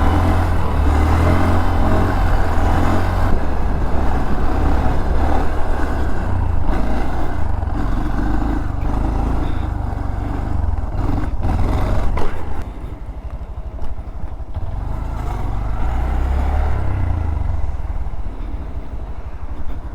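Motorcycle engine running on the move, with a steady rush of wind noise. About twelve seconds in it turns quieter as the bike eases off.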